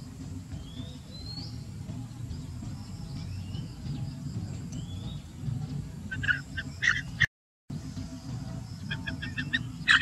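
Bird chirps: short rising whistled chirps every second or two, then a few quick bursts of rapid chirping near the end, over a steady low rumble. The sound cuts out for a moment about seven seconds in.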